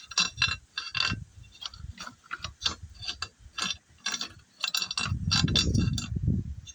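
Ratchet wrench clicking in short runs while loosening the cylinder-head bolts of a small Briggs & Stratton mower engine. A louder low rumbling clatter comes about five seconds in.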